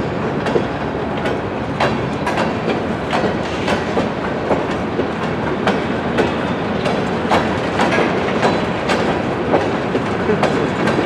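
Freight train cars rolling past, a steady rumble with wheels clacking over rail joints about once or twice a second.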